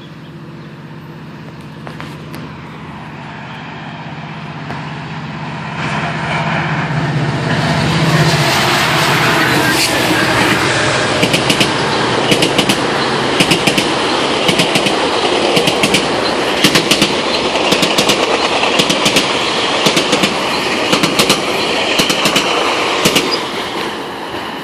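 GO Transit commuter train of bilevel coaches approaching and passing close by at speed. A low steady hum at first gives way to a growing rumble of wheels on rail. From about ten seconds in come rapid clickety-clack clicks as the wheels cross rail joints, and these ease off near the end.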